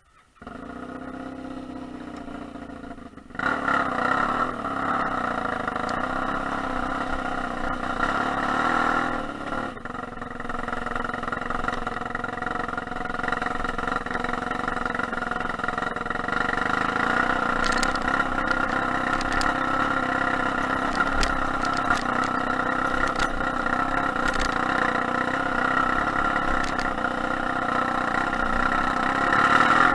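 Motorcycle engine running at low revs, then opening up about three seconds in and running steadily under way on a rough dirt track, with occasional short knocks.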